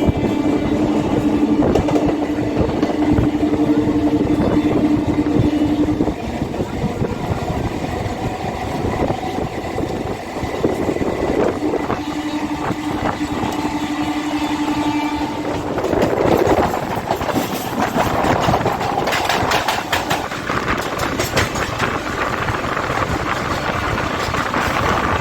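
Kolkata electric local train running: steady rail and wheel noise with a hum that holds for the first six seconds, drops out, and returns for a few seconds midway, then busier noise with higher tones over the last part.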